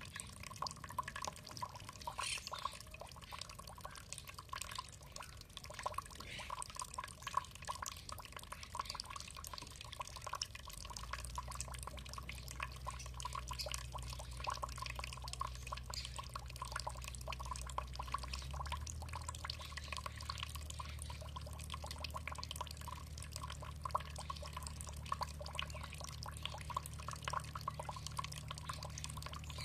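Water trickling and dripping, a dense patter of small drops splashing.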